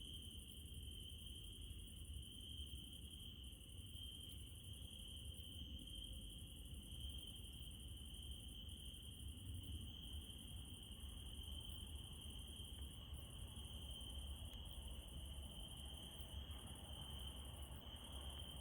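Crickets trilling steadily at night, one steady high trill with a second, higher and faster-pulsing insect chorus above it, over a faint low rumble.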